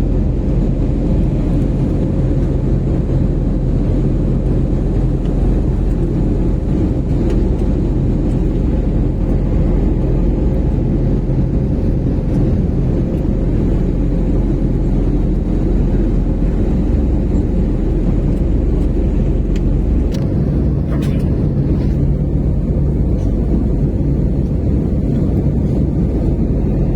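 Steady drone of an airliner's jet engines and rushing air, loud and low-pitched with a constant hum.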